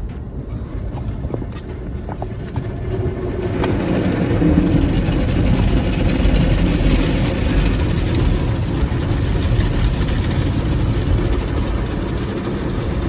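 Automatic car wash running over the car, heard from inside the cabin: a dense, steady rush of spray and machinery that swells about three and a half seconds in.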